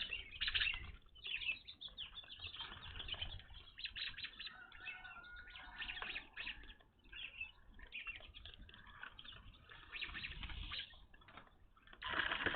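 Evening grosbeaks calling in many short, repeated chirps, with wings fluttering. The calls grow louder and denser near the end.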